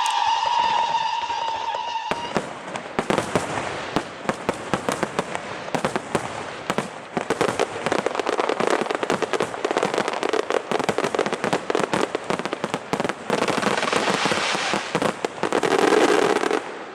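Aerial fireworks display: a steady whistling tone for the first two seconds, then a long run of dense, rapid crackling and bangs that cuts off suddenly near the end.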